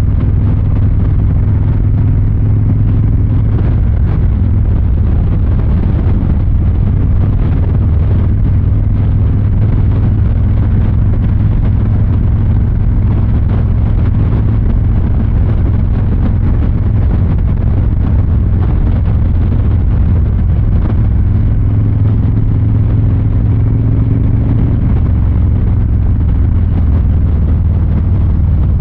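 Milwaukee-Eight 114 V-twin of a 2023 Harley-Davidson Fat Boy 114 running through its exhaust at low, steady revs, a deep even rumble with only slight changes in pitch.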